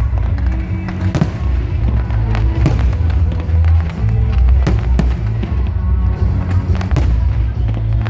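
Fireworks going off: several sharp bangs with crackle over loud, bass-heavy music played for the display.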